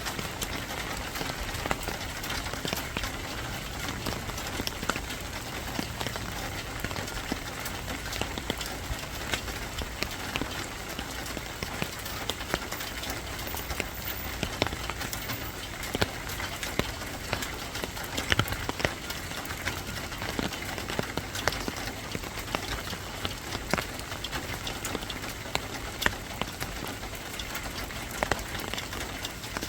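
Steady rain falling on a hard surface, an even hiss dotted with many sharp, irregular drop hits.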